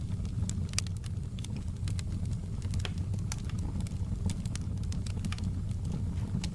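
Crackling fire: irregular sharp snaps and pops, several a second, over a steady low rumble.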